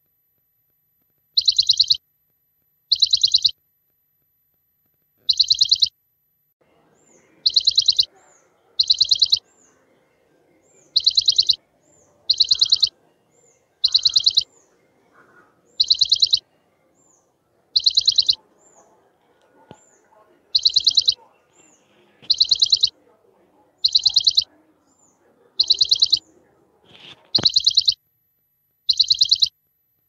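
A high, trilled bird chirp repeated about twenty times at fairly even spacing, each chirp alike. From about six seconds in, softer, higher short chirps and faint background noise come in underneath, ending with a click near the end.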